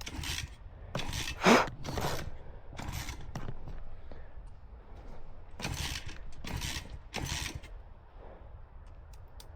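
A dirt bike being kick-started over and over: a string of short mechanical ratcheting scrapes and clunks, about one every half second to second, and the engine does not catch.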